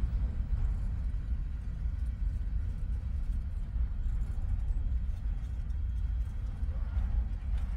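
Low, steady rumble of a passing train.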